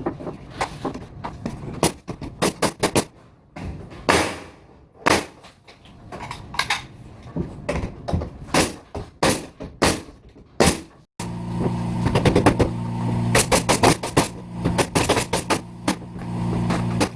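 Repeated sharp shots of a pneumatic nail gun, single and in quick runs. About 11 seconds in a steady low hum comes in under the shots.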